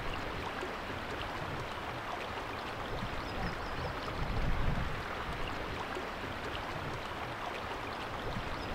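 Steady rush of flowing river water, an even hiss with no pitch, swelling slightly about halfway through.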